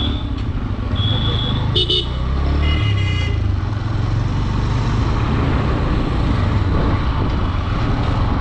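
Honda Dream 110 commuter motorcycle's engine running with wind rumble while riding. Vehicle horns sound in the first few seconds: a thin high beep about a second in, then a buzzier multi-note horn around three seconds.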